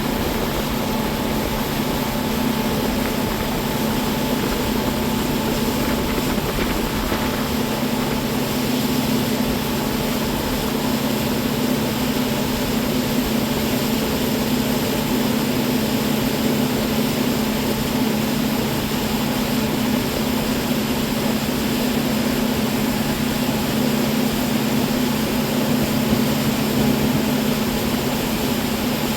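Boat motor running steadily at speed, a constant low drone over a loud rush of wind and water.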